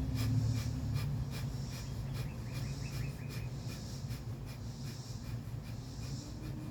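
Kapalabhati pranayama breathing: rapid, forceful exhales through the nose, about two to three short puffs a second, over a steady low hum.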